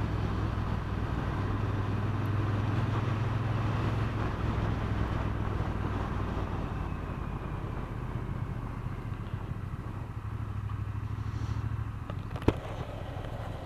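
Triumph Bonneville T120's parallel-twin engine running at a steady cruise under a rush of wind noise. The engine note drops about twelve seconds in, and a single sharp click follows shortly after.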